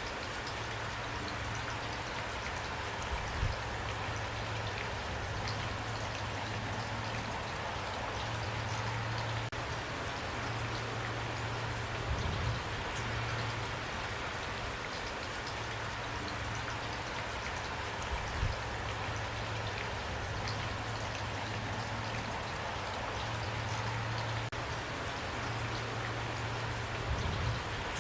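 Steady rain falling, an even hiss of drops with a low rumble underneath and a few low thumps.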